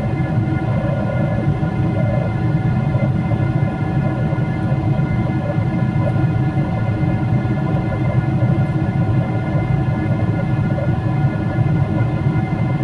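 Steady in-flight cabin drone of a Boeing 777-300ER: a constant low rumble of airflow and engines, with a few steady hum tones above it.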